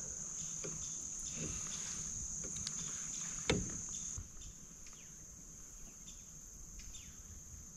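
Steady, high-pitched chorus of insects from the creek banks, with one sharp knock about three and a half seconds in; the chorus gets quieter after about four seconds.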